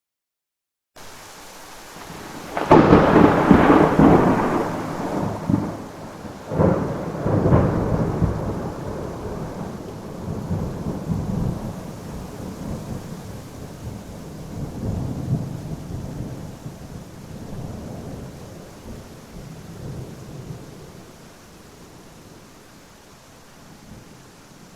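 Thunderstorm: a loud thunderclap about three seconds in and a second one about seven seconds in, each followed by a long low rumble that slowly fades, over a steady hiss of rain.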